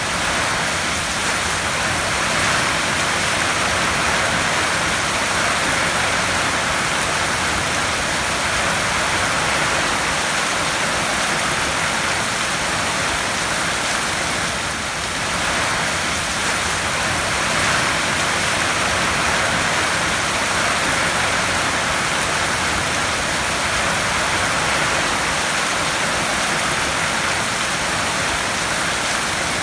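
Heavy rain drumming on a tin roof: a dense, steady hiss with no breaks.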